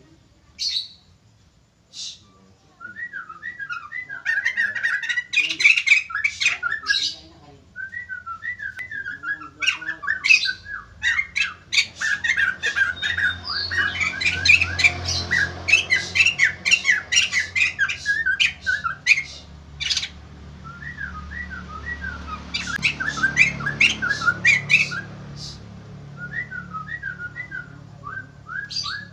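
White-crested laughingthrush calling loudly in bouts of rapid, harsh cackling notes mixed with sharper whistled notes, pausing briefly between bouts.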